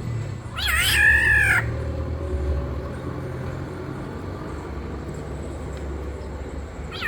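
Black-naped oriole giving its harsh nasal 'ngalas' call: one wavering call about a second long, with a second call starting at the very end, over a steady low rumble.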